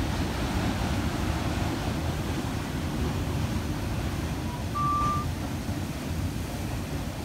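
Freight train of autorack cars rolling past, a steady low rumble of wheels on the rails. About two thirds of the way through there is one short high beep.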